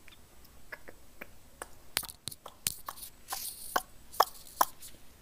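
Irregular sharp clicks and taps of a computer keyboard and mouse being worked, sparse at first and busier from about two seconds in.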